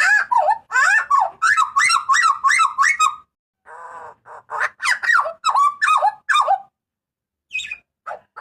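Butcherbird calling loudly: two fast series of short, slurred, ringing notes, split by a brief rasping note, then a pause before calling resumes near the end.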